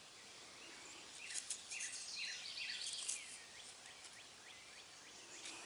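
Faint outdoor ambience with a small bird singing a quick run of about six short, downward-sliding chirps, starting about a second in, over a quiet steady hiss.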